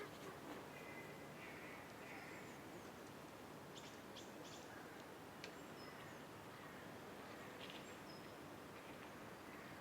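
Quiet outdoor ambience: a faint steady hiss with a few short, faint bird chirps scattered through it.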